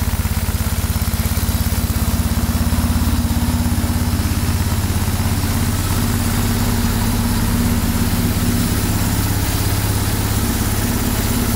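BMW R1150R Rockster's air/oil-cooled boxer twin engine idling steadily.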